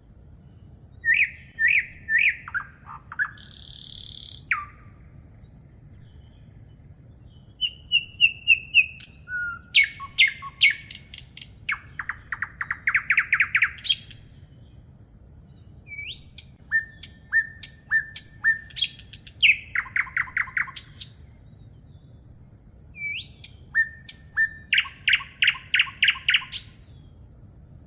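A songbird singing in bouts of quick, repeated chirps, each bout running into a fast trill. There are about four bouts, each separated by a few seconds of pause.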